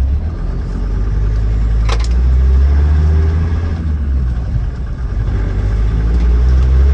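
Land Rover Defender 90 Td5's 2.5-litre five-cylinder turbodiesel pulling away on the road, heard from inside the cab. The engine note builds, dips briefly a little after halfway, then builds again, with one sharp click about two seconds in.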